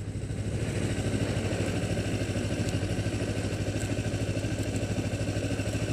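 Kawasaki Ninja 250R's carbureted parallel-twin engine running steadily at low revs, an even, rapid pulsing beat.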